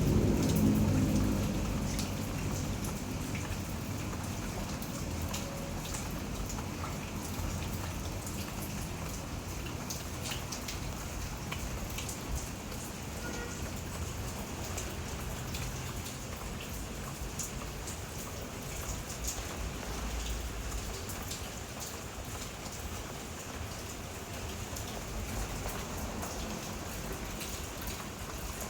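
Steady rain falling, with drops pattering on nearby surfaces in many small, scattered ticks. A low rumble sits under the rain at the start and fades within the first couple of seconds.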